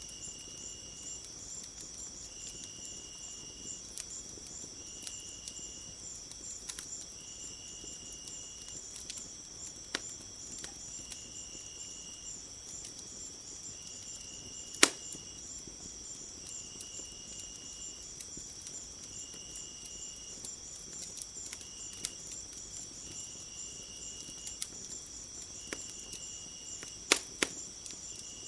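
Crickets trilling steadily, with a second insect chirping in short pulses about every second and a half. Occasional sharp pops of a crackling wood fire cut through, the loudest about halfway through and two in quick succession near the end.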